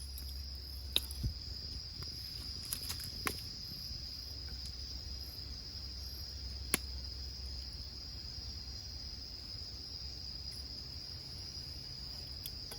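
Insects trilling in a steady, unbroken high-pitched drone, with a few sharp clicks scattered through it.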